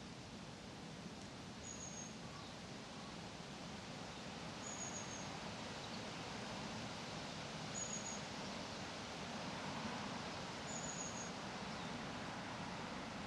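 A small bird repeats a thin, high whistled note four times, about three seconds apart, over a steady rustling hiss of leaves that swells a little after a few seconds.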